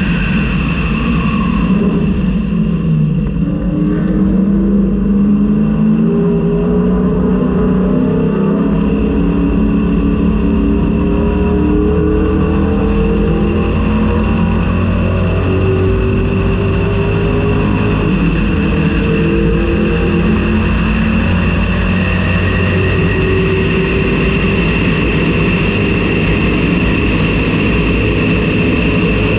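Ford Mustang race car's engine heard from inside the cabin, pulling hard and rising in pitch through each gear with drops at the upshifts, over and over. A steady high whine sits under it throughout.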